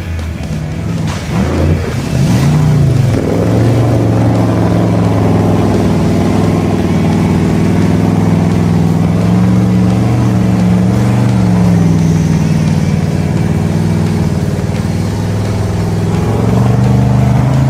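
An engine revving up, then running at a steady, slightly wavering pitch, then dying away at the end.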